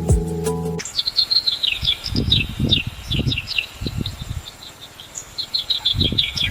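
Field ambience of rapid high-pitched chirping calls in quick falling runs, with low gusts of wind buffeting the microphone. A music bed cuts off just under a second in.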